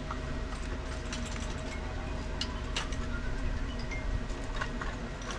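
Scattered light metallic clicks and taps of hand tools working on a pool pump while its ground wires are being removed, over a steady low rumble.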